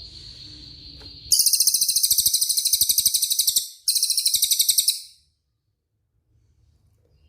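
A songbird's masteran song: a held high whistle, then a loud, very high, rapidly pulsing rolling trill in two bursts with a short break between them, the first about two and a half seconds long and the second about one second, before the song stops.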